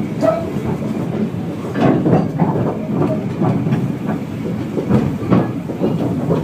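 Narrow-gauge train running, its wheels clattering irregularly over the rail joints over a continuous rumble.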